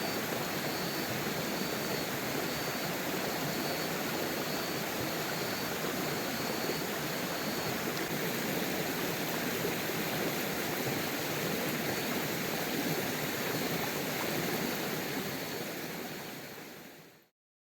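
Steady rushing water from heavy rain and a flowing river, fading out near the end.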